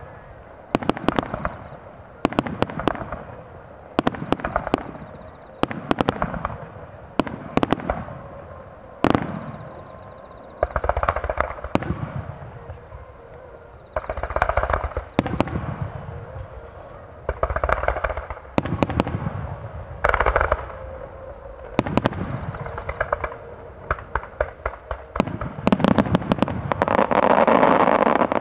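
Star mine fireworks barrage: aerial shells bursting in sharp booms about every one to two seconds, each trailing off, with crackling between. Near the end it builds to a dense, continuous crackling volley for the finale, then stops abruptly.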